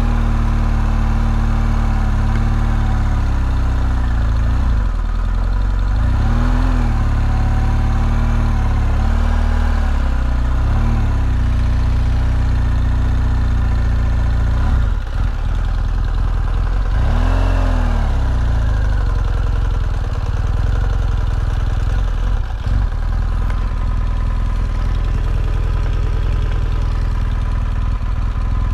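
BMW R1200GS boxer-twin engine running under the rider's throttle on a dirt track, its pitch rising and falling in several short blips, with one bigger rev about seventeen seconds in.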